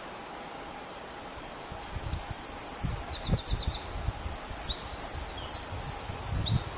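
A songbird singing rapid series of high chirps and fast trills, starting about two seconds in, over a steady hiss, with low thuds underneath.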